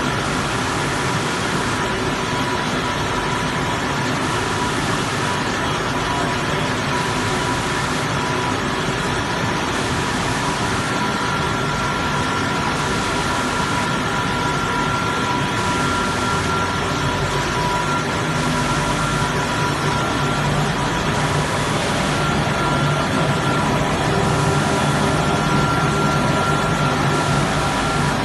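Vertical glass washing machine running: a steady mechanical drone with two constant high-pitched whines, and a hiss that dips in a regular rhythm about every two seconds.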